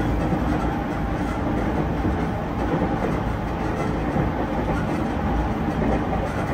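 Interior running noise of a JR E231-series 1000 commuter train under way: a steady rumble of wheels and running gear on the rails, heard inside the passenger car.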